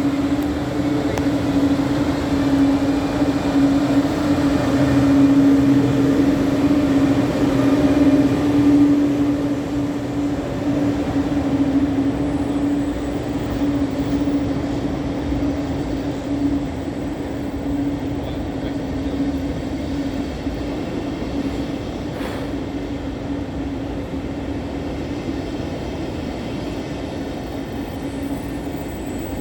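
Flixtrain passenger train pulling away, a steady electric hum over the rumble of wheels on rail that slowly grows fainter as it moves off.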